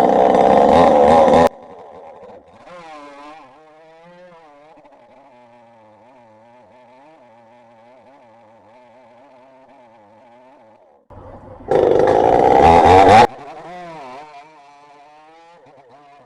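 Chainsaw run at full throttle twice, each time for about a second and a half, once at the start and again about twelve seconds in. In between it idles much more quietly with a wavering pitch.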